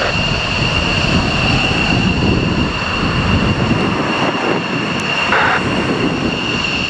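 F-15 fighter jet engines running at taxi power: a steady loud roar with a constant high-pitched whine over it.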